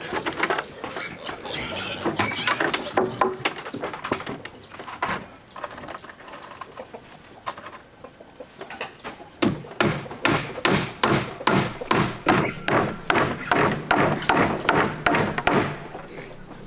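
Chickens clucking, then about halfway through a run of quick, even knocks, about three a second, lasting some six seconds.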